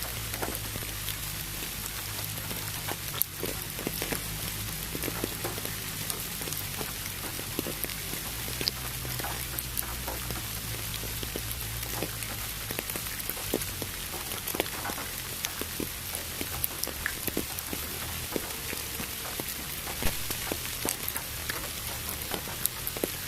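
Steady rain hiss mixed with pink noise, with many scattered raindrop ticks over a faint low hum.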